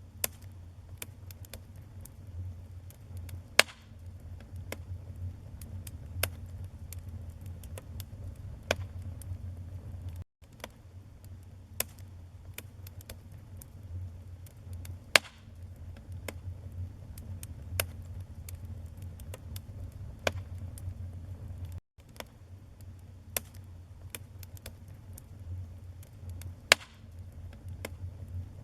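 Wood fire in a fireplace crackling, with many small sharp pops over a steady low rumble of the flames. Three louder pops stand out, about eleven seconds apart, and the sound cuts out for a split second twice.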